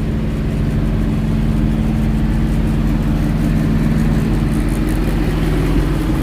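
Semi-truck diesel engine idling steadily, a constant low hum with no change in pitch.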